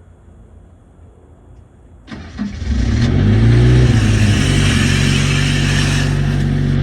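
Diesel truck engine cranking and catching about two seconds in, its pitch rising briefly before it settles into a steady loud run. A rushing hiss rides on top and stops near the end.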